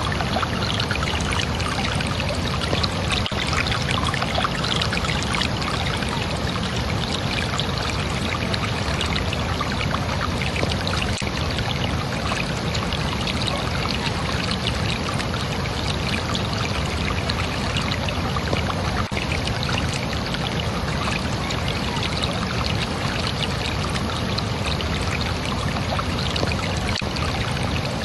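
Water flowing in a steady, unbroken rush, like a stream or small cascade pouring over rocks.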